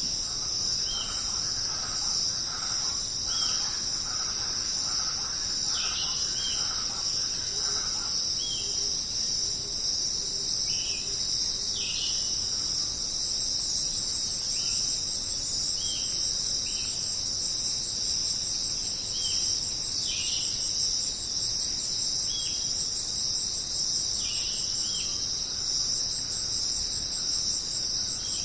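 Dense, steady chorus of jungle insects with a high, even buzz, overlaid by short chirps that come every second or two. Fainter calls sound through the first third.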